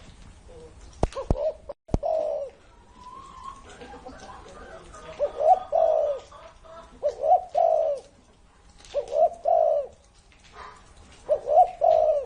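Spotted dove cooing in repeated phrases, one group of low notes about every two seconds. A few sharp clicks come about a second in.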